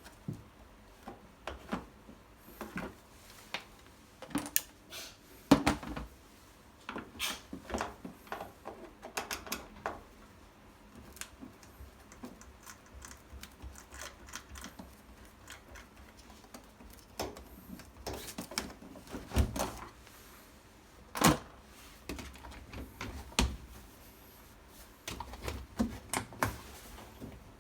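Irregular clicks, taps and knocks of objects being handled in a small room, with a few sharper knocks scattered through.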